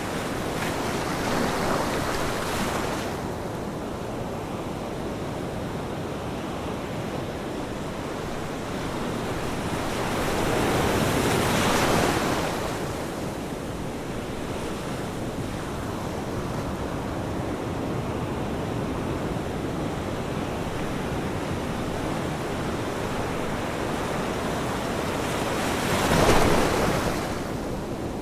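Ocean waves breaking on a shore over a steady wash of surf, with three waves swelling and crashing about ten seconds apart; the last, near the end, is the loudest.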